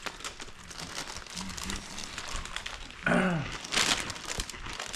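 A snack bag crinkling and crunchy snacks being chewed, a run of quick crackles and rustles, with a short voice sound about three seconds in.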